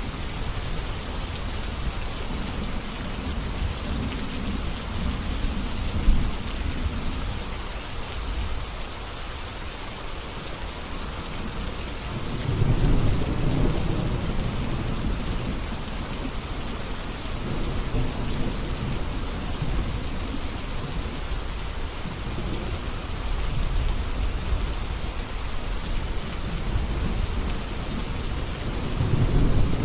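Steady heavy rain with low rolling thunder rumbling several times, the loudest rumbles about twelve seconds in and near the end.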